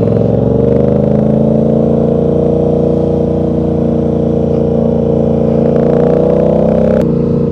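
Yamaha R7 motorcycle with an aftermarket exhaust under steady acceleration, the engine note climbing gradually for about seven seconds. The pitch then drops suddenly as the rider shifts up or rolls off the throttle.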